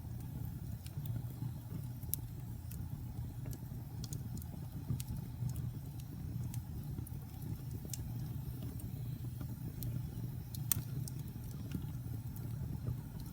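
Wood fire burning in a fireplace: a steady low rumble of the flames with scattered crackles and small pops of the burning logs, one louder pop about three-quarters of the way through.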